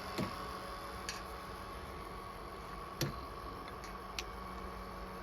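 A steady mechanical hum, with several irregular sharp clicks and taps over it.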